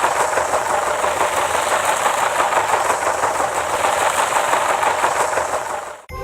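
A steady, loud, rattling vehicle noise, like a running engine, that cuts off suddenly near the end.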